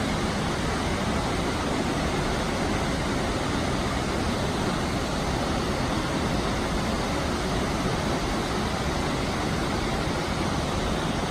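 Krka waterfall roaring: a loud, steady rush of falling water with no change.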